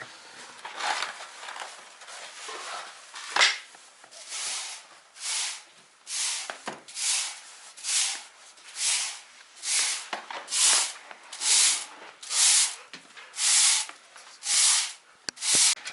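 Broom sweeping sawdust and snow in regular strokes, about one a second, each a short scratchy swish. A sharp knock sounds about three seconds in.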